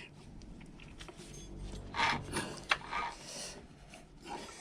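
Short metallic scrapes and rubbing as a scooter's variator pulley is turned and its nut is done up by hand, a cluster of scrapes with a sharp click starting about two seconds in.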